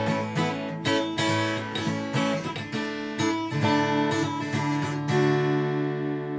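Background music: strummed acoustic guitar playing chords, with a held chord near the end.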